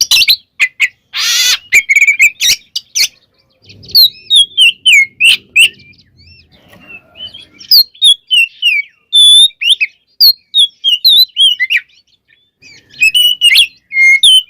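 Oriental magpie-robin (kacer) singing a rapid, varied song of short whistles, chirps and trills that glide up and down, with one harsh rasping note about a second in and brief pauses in the middle and shortly before the end.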